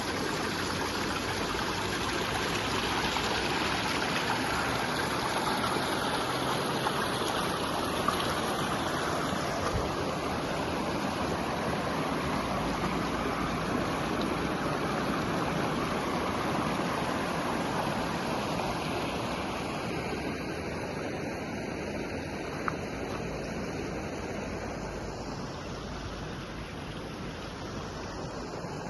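River water rushing steadily over rocks, a dense even noise that eases a little about two-thirds of the way through, with a couple of brief ticks.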